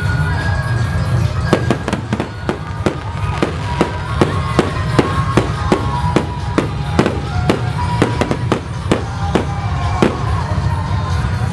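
Aerial fireworks going off: a fast run of sharp bangs, about three a second, starting about a second and a half in and thinning out near the end, over a steady low rumble.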